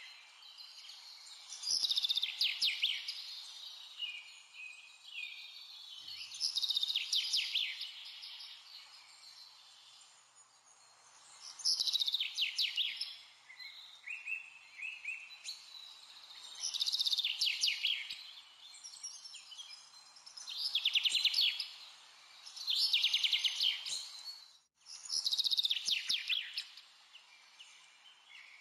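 Songbird singing: about seven high phrases of rapid trills and chirps, each a second or two long, repeating every few seconds.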